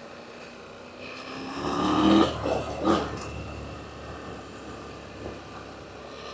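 Adventure motorcycle's engine running on the move over a steady haze of wind and road noise, revving up with a rising pitch about two seconds in.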